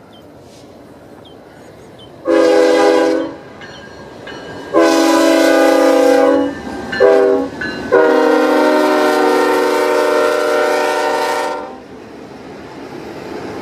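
BNSF diesel locomotive's multi-chime air horn sounding two long blasts, a short one and a final long one: the standard grade-crossing warning. The approaching train's rumble grows near the end.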